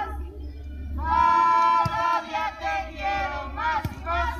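Parents chanting a team cheer together in sing-song unison, with long held notes, starting about a second in.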